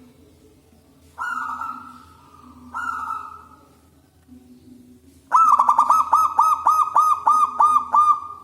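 Zebra dove (perkutut) cooing: two drawn-out, slightly falling coos about a second and a half apart. About halfway through comes a fast run of about a dozen short, even coos, some four a second.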